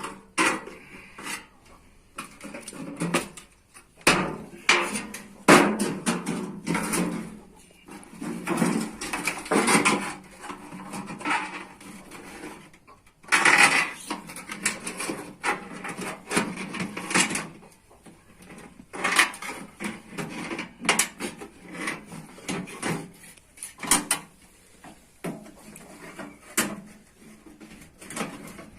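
Irregular knocks, clanks and scraping of metal being handled and worked by hand, with a longer rasping stretch about halfway through.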